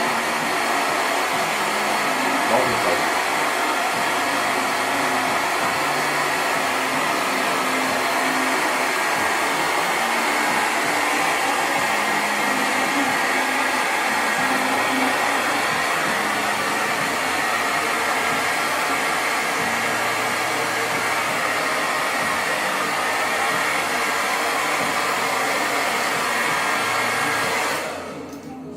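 Handheld hair dryer blowing steadily while hair is blow-dried for styling. It drops away briefly near the end, then comes back.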